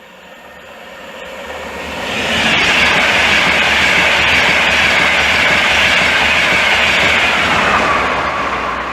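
InterCity 225 (Class 91 electric locomotive with Mark 4 coaches) passing through a station at speed without stopping: a rush of wheels on rail and air that builds over the first two seconds, holds loud for about five seconds, then starts to fade near the end.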